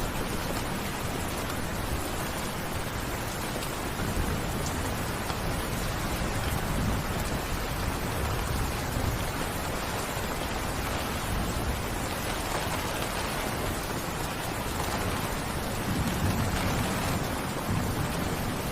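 Steady rain falling, a dense continuous hiss of drops, with a low rumble swelling up a few times underneath.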